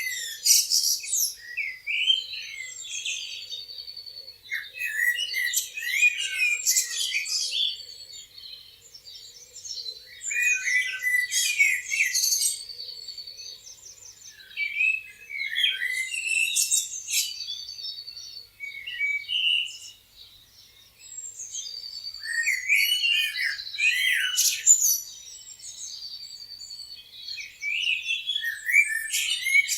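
Birds chirping and singing, the loudest phrases coming in bursts every five or six seconds with quieter chirps between.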